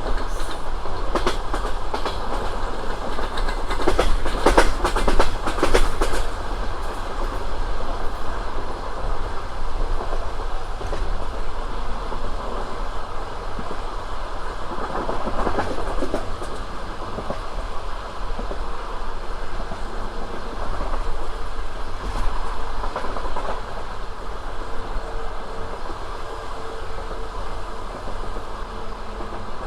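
Passenger train carriage running along the track: a steady rumble with clusters of clickety-clack as the wheels pass over rail joints. The heaviest run of clacks comes in the first few seconds, with shorter runs near the middle and later on.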